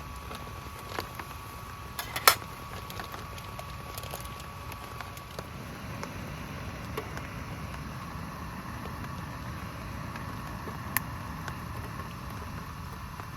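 Steady rain with a few sharp clicks or knocks over it, the loudest about two seconds in and another near the end.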